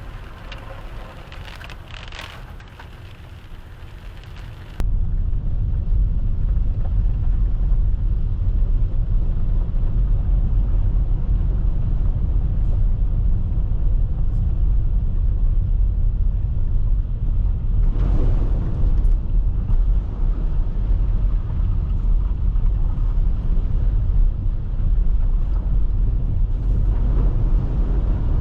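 A car driving: a steady low rumble of engine and road noise, which jumps much louder at a sudden cut about five seconds in. A brief rushing surge comes about eighteen seconds in.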